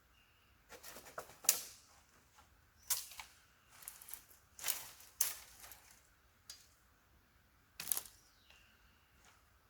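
Irregular sharp clicks and short scratchy crackles, about nine in all, from handling kindling and trying to light wet wood for a fire.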